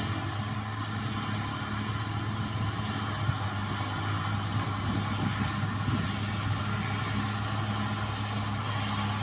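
Caterpillar D6R XL bulldozer's diesel engine running steadily: a constant low hum with a noisy mechanical wash above it.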